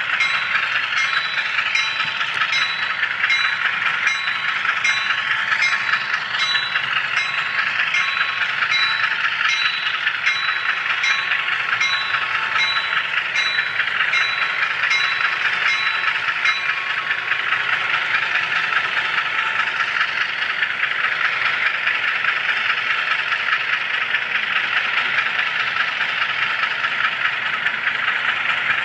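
HO scale model train running on the layout track, heard close up from a camera car riding the train: a steady rushing hum of wheels and motor, with regular clicks about two a second that stop about two-thirds of the way through.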